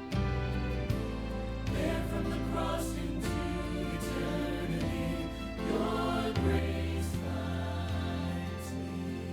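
Choral Christian music: a choir singing over sustained accompaniment with a deep bass, the harmony shifting about six seconds in.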